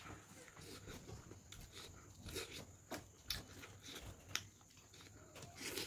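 Close-up eating sounds: chewing, with irregular wet mouth-smacking clicks.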